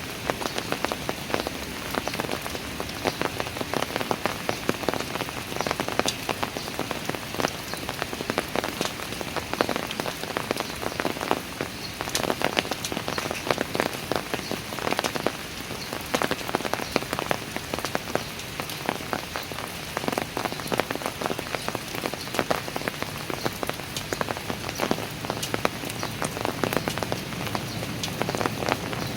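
Steady rain falling on hard surfaces, with many close drops pattering and ticking.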